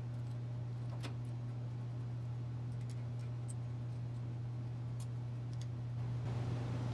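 A steady low hum with a few faint, sharp clicks, the clearest about a second in.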